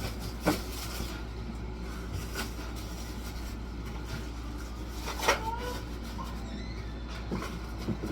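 Food containers and items knocking and clattering as a fridge is cleared out, with two sharper knocks about half a second and about five seconds in, over a steady low hum.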